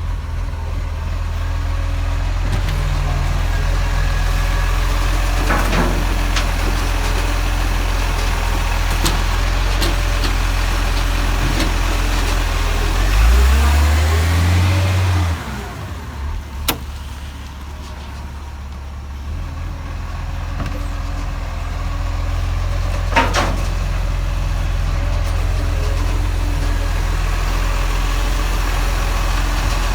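Garbage truck's diesel engine running steadily, its revs rising for about two seconds about halfway through before dropping back. Two sharp knocks come later.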